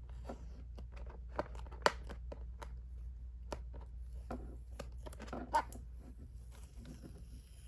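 Tape and plastic packaging on a toy box being peeled, torn and crinkled by hand: a run of small crackles and clicks, with two sharper snaps, one about two seconds in and one later.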